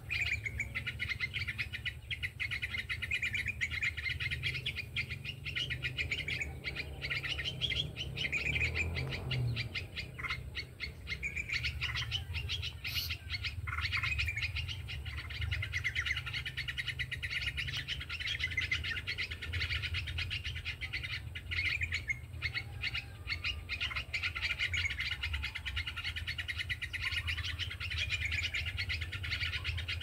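Small birds chirping continuously, many quick high calls overlapping with no pause, over a steady low rumble.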